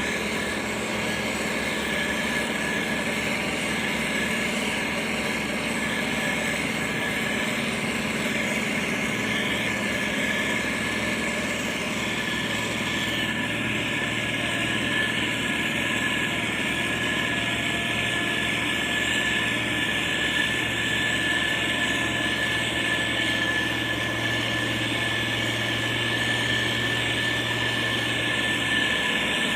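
Diesel engine of a heavy road-construction machine (motor grader or road roller) running steadily under light load, with a steady high tone over the engine noise.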